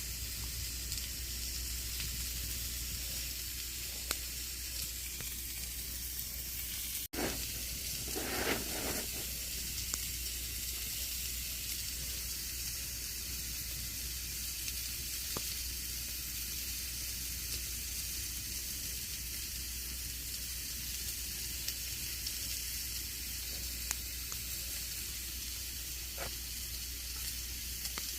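Campfire burning: a steady hiss with scattered sharp crackles and pops of burning wood. About seven seconds in the sound cuts out for an instant, then a short louder rustling swell follows.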